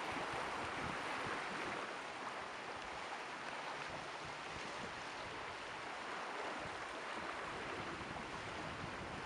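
Ocean surf rushing and washing against the rocky shore: a steady hiss, a little louder for the first couple of seconds.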